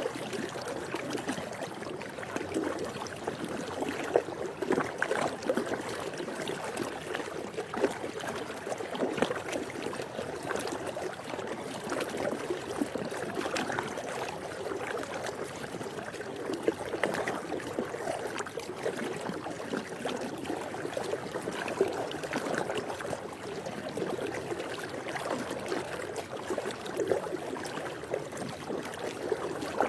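Swimming pool water lapping and splashing steadily, with many small irregular splashes and trickles.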